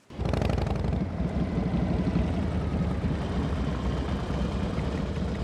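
Motorcycle engine starting up abruptly and running loudly with a low, rhythmic pulse.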